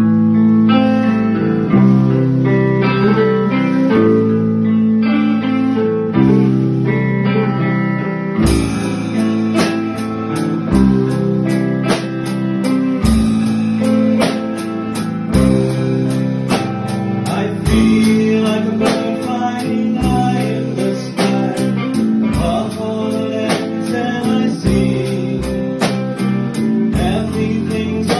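Live band playing a song intro: sustained guitar and bass chords for the first eight seconds or so, then drums come in with a steady beat.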